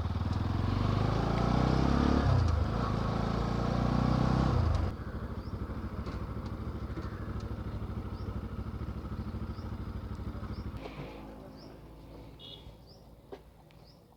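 Motorcycle engine accelerating with its pitch rising through two gears, then about five seconds in settling to a steady low running beat that dies away about eleven seconds in as the bike stops.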